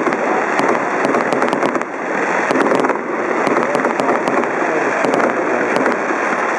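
Fireworks display: a loud, dense, unbroken crackle of many small pops and bursts.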